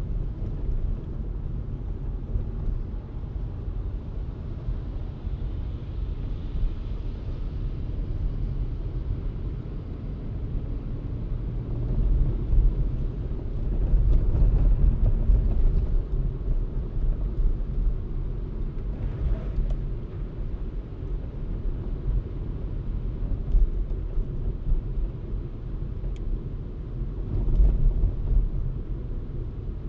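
Car driving on city streets: a steady low rumble of road and engine noise that swells louder a couple of times.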